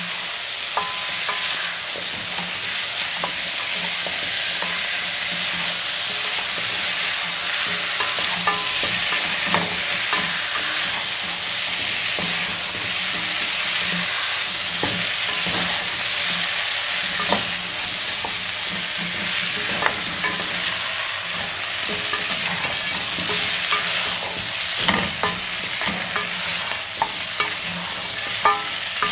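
Spiced beef, onions and whole peeled potatoes sizzling in a pot as a wooden spoon stirs and turns them, with a steady frying hiss and now and then a short knock or scrape of the spoon against the pot.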